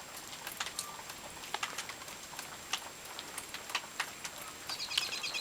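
Rain dripping in irregular single drops and light patter. A short run of high chirps, probably a bird, comes near the end.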